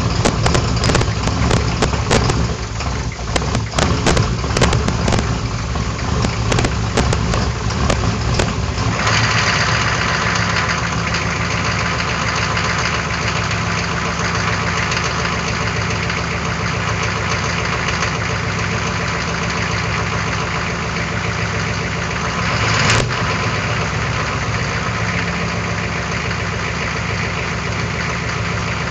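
1994 Chevy C2500's 6.5 L turbo diesel V8 running just after a cold start at 33 °F. It runs rough and uneven for the first several seconds, then settles into a steady idle. There is one brief louder swell about two-thirds of the way through.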